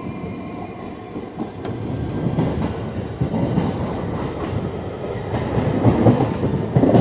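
A train running along the tracks, heard from on board, with its wheels clattering over rail joints. The rumble grows louder from about two seconds in.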